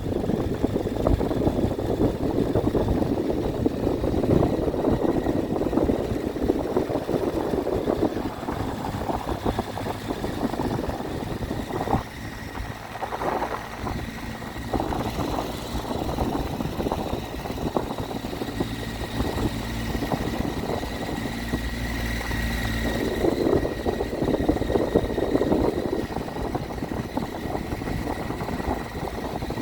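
Triumph Tiger 800's three-cylinder engine running, a steady engine hum under a rushing noise. The rushing eases about twelve seconds in, leaving the engine hum clearer, and builds again near the end.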